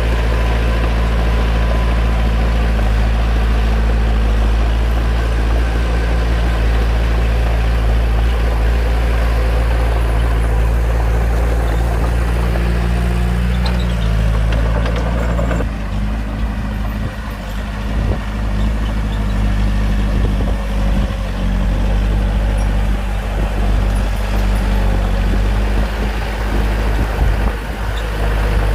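Bulldozer's diesel engine running steadily under work, with the engine note changing about halfway through.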